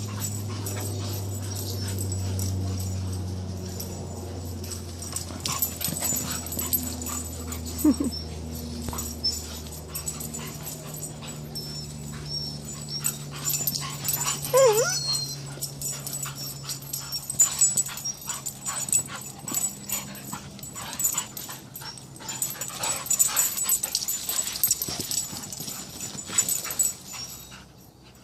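A dog making low, drawn-out grumbling sounds with a few short whimpers, over many small clicks.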